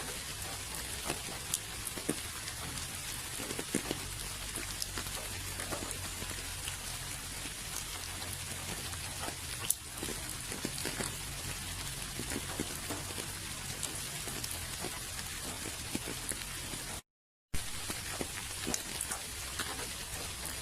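Steady rain, an even hiss with many separate drops striking close by as scattered clicks. The sound cuts out completely for about half a second near the end, then resumes.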